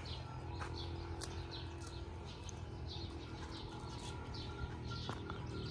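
Small birds chirping: short, falling chirps repeated about twice a second, over a faint low hum.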